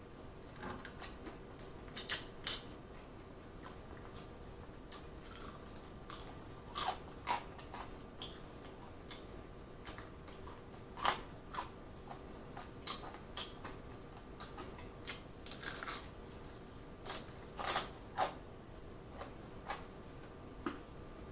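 Close-miked crunching and chewing of crispy fried chicken: sharp, crisp crunches that come irregularly, in small clusters every second or two, loudest around a quarter and three-quarters of the way through.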